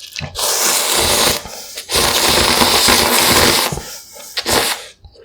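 Loud slurping of yukgaejang cup ramyun noodles close to the microphone, in three pulls: one of about a second, a longer one of nearly two seconds, then a short one near the end.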